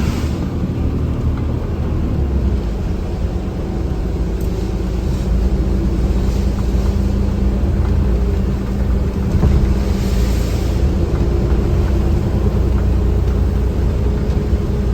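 Steady low drone of a vehicle being driven, heard from inside the cab: engine and road noise. A brief hiss rises over it about ten seconds in.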